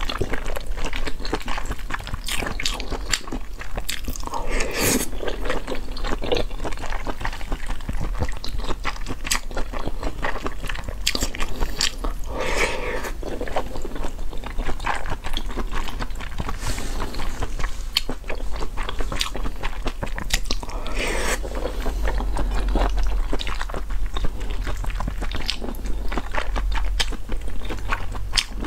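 Close-miked chewing of soft homemade dough pieces in a thick chilli sauce: steady mouth sounds with many small wet clicks.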